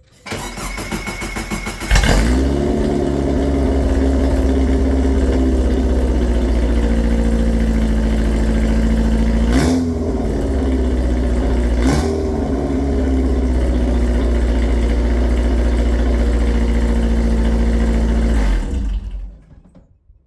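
Subaru EJ20 flat-four engine, muffler removed so it runs on an open straight pipe, cranked by the starter for about two seconds before catching. It then idles loud and steady, is blipped twice briefly, and is switched off near the end.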